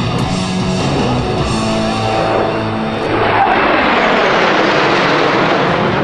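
Rock music with electric guitar. About halfway through, a jet aircraft passing overhead swells in over it, its noise louder than the music and falling in pitch as it goes by.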